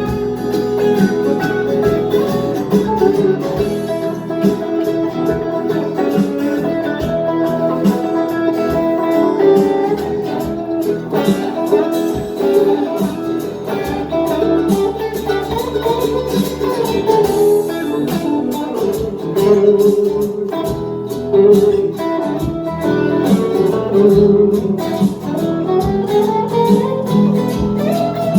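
Live band playing an instrumental break led by guitars, with plucked notes and chords carrying the tune and no singing.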